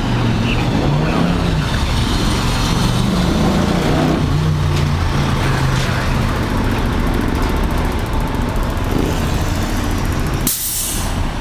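FDNY fire truck's diesel engine running with a steady low rumble. Near the end comes a short, sharp hiss of the truck's air brakes.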